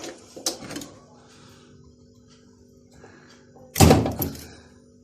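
A few light clicks, then a loud knock with a short rattle about four seconds in: an automatic washing machine's drain pump and hose being handled as they are taken out.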